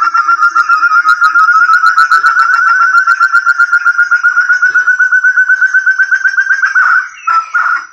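Forest partridge (puyuh hutan, 'burung terung') calling: a loud, rapid run of clear whistled notes, several a second, creeping slowly up in pitch, breaking off about seven seconds in into a few separate notes. A recording used as a lure call.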